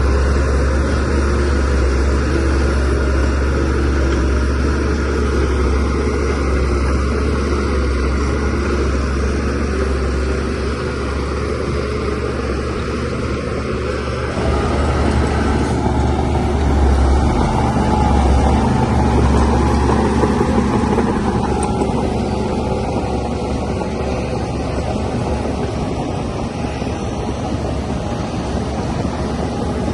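DH17C3 PRO bulldozer's diesel engine running under load, with the engine sound swelling for several seconds about halfway through before settling again.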